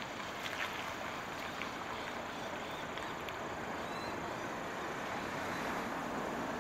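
Steady vehicle noise, a hiss that grows slightly louder near the end, with a few short clicks in the first half.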